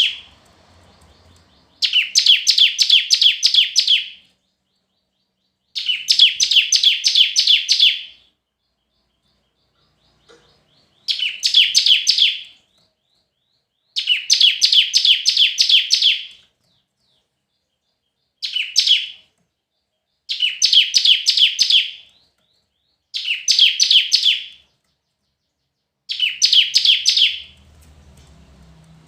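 Bar-winged prinia (ciblek) singing: eight bursts of rapid, evenly repeated high chirps, each lasting one to two and a half seconds, with short pauses between them.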